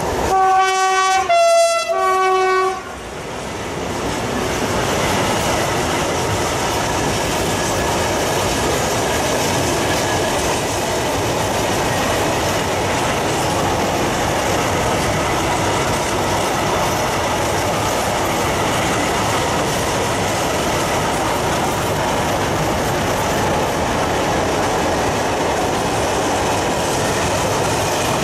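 Horn of a modernized 15D/A ('Tamara') diesel shunting locomotive, sounded in three short blasts with the middle one slightly lower, during about the first three seconds. Then the steady rolling noise and wheel clatter of a long train of open coal wagons passing close by.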